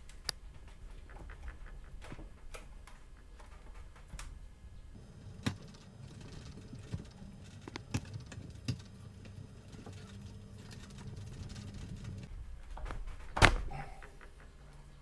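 Hand disassembly of a Dell Optiplex 7440 all-in-one computer: scattered small clicks and taps of plastic and metal parts being handled, with one loud sharp click about 13 seconds in. A low hum runs from about 5 to 12 seconds in.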